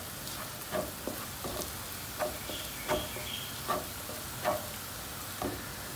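Sambal stingray frying in a pan: a steady sizzle, with irregular scrapes of a spatula stirring it about once or twice a second.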